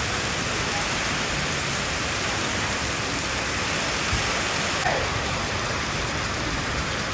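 Heavy rain falling steadily in a downpour, an even, unbroken hiss of rain on surfaces.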